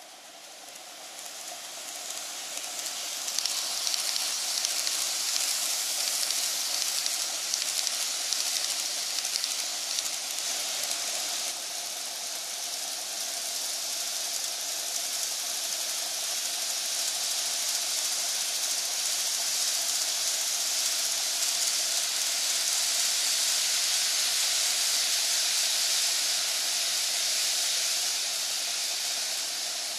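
N-gauge model trains (485 and 787 series) running on the track: a steady hissing rattle of the small wheels on the rails over a steady hum from the motors. It grows louder over the first four seconds, then holds steady.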